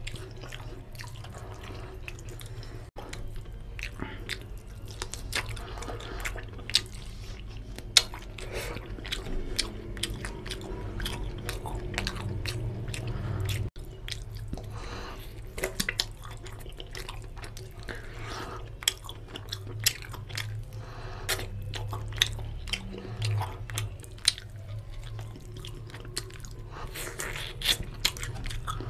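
Close-miked eating sounds: chewing and biting on chicken curry and rice eaten by hand, with many sharp, wet mouth clicks and an occasional crunch.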